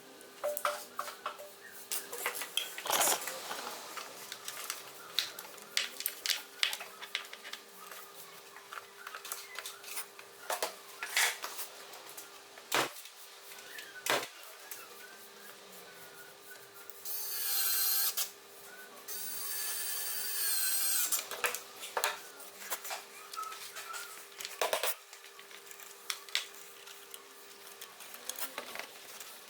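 Scattered clicks and knocks of tool and part handling. A small power tool runs in two short bursts about two-thirds of the way in, the second a couple of seconds long, with a faint steady hum underneath.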